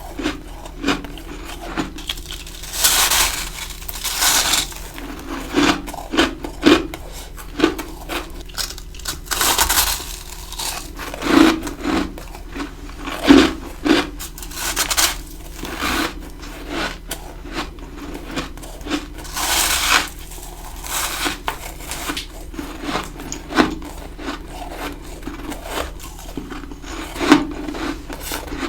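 A person biting and crunching ice close to the microphone: a run of crunches, each a short noisy burst, some drawn out to about a second, coming every second or two.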